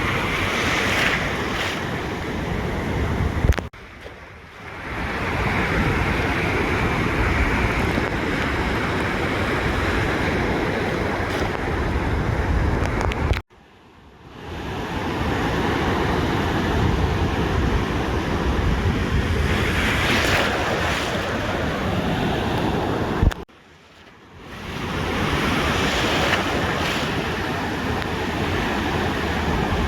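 Ocean surf washing onto a beach, with wind buffeting the microphone. The sound cuts out abruptly three times, about every ten seconds, and fades back in over a second or so each time.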